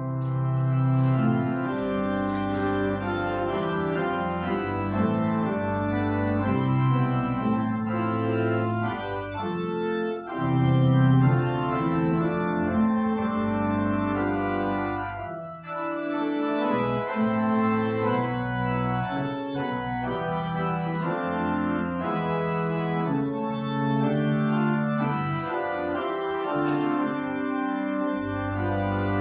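Church organ playing a slow piece in sustained, changing chords. It comes in suddenly at the start.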